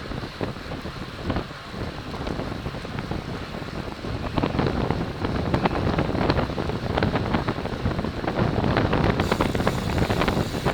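Wind rushing over the microphone of a camera riding on a racing road bike, with rattling clicks and knocks, louder from about four seconds in.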